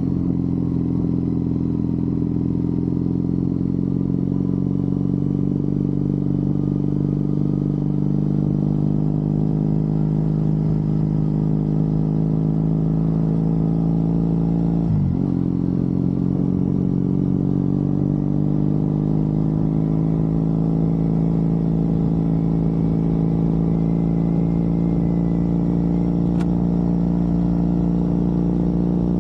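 Triumph Bonneville parallel-twin motorcycle engine running under way, a steady engine note whose pitch sags slowly at first. About halfway through the note dips sharply and recovers, then it edges up again near the end.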